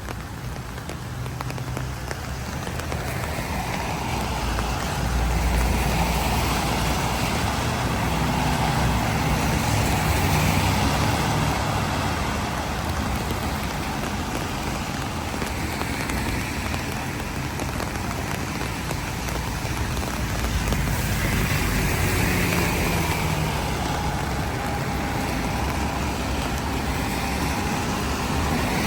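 Steady rain with motor traffic passing along a wet road, the swish and engine rumble of vehicles swelling up and fading several times over the rain's hiss.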